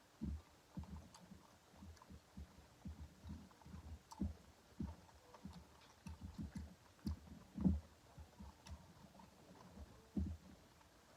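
Close-miked chewing of food: irregular soft low thuds from the jaw, with faint wet mouth clicks.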